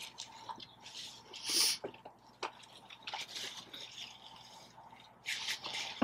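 Close-up wet chewing and lip-smacking of someone eating, with scattered small clicks and squishy mouth sounds; the loudest is a short wet burst about one and a half seconds in.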